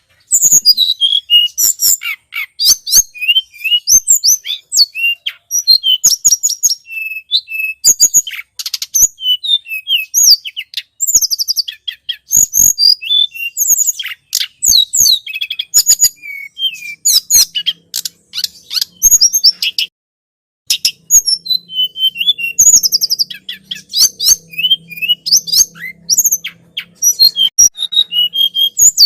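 Tledekan gunung bird-lure recording: rapid runs of high, sharp chirps and trills in quick bursts, with one short pause about two-thirds of the way through.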